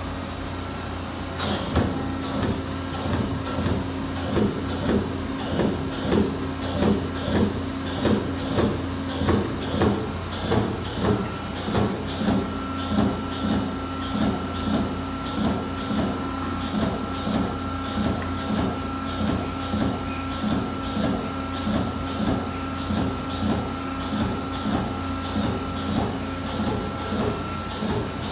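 Amada Vipros 357 CNC turret punch press running, its ram striking in a steady rhythm of about two hits a second over a continuous machine hum; the strokes start about a second and a half in.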